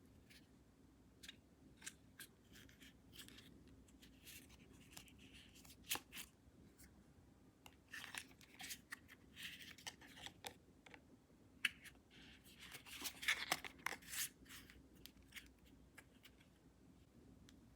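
Hands handling a carbon fiber card wallet: scattered light clicks, taps and short scrapes, busiest in the second half with a sharp click a little before the middle of that stretch.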